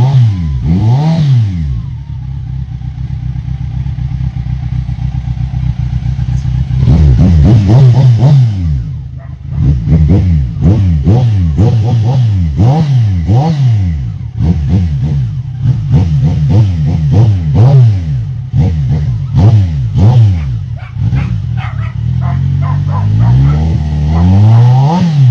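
Kawasaki Z1000's inline-four engine revved over and over, its pitch swooping up and falling back with each throttle blip. It settles into a quieter, steadier stretch a couple of seconds in, then the quick revving resumes.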